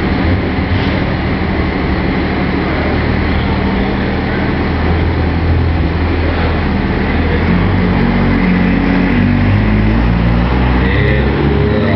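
A big pulling truck's engine running loud and steady. It gets louder about five seconds in and climbs in pitch a little later.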